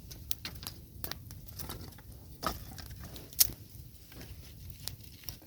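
Thin willow sticks clicking and knocking against each other as they are laid in rows for a campfire. The clicks come irregularly, with two sharper knocks about two and a half and three and a half seconds in.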